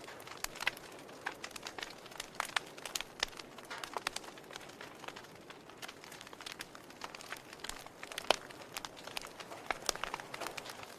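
Wood logs burning in a fireplace, crackling with irregular sharp pops over a soft hiss, one louder pop about eight seconds in.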